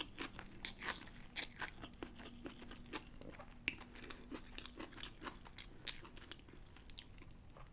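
Close-miked chewing of a mouthful of pancit bihon (rice noodles with pork), with irregular small mouth clicks and soft crunches.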